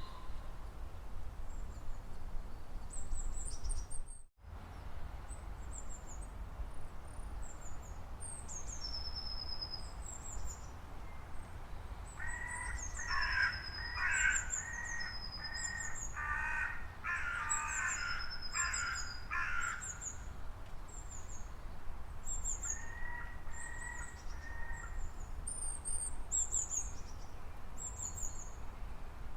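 Outdoor bird ambience: small birds chirp in short high notes throughout, over a steady low rumble. Midway comes a run of harsh, repeated calls from a larger bird, and a shorter run follows a few seconds later. The sound drops out briefly about four seconds in.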